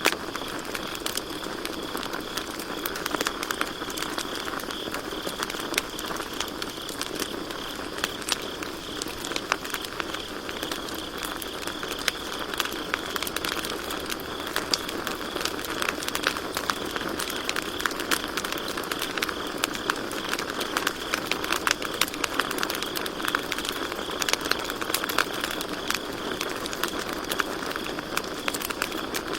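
Campfire crackling, with frequent sharp snaps and pops over a steady hiss of burning wood, and a constant high-pitched chorus of crickets underneath.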